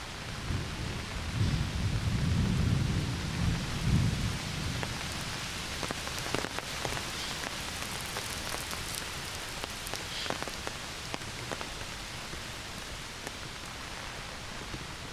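Heavy summer rain falling steadily through forest, with a low roll of thunder rumbling in the first few seconds. A few louder single drops tick close by about halfway through.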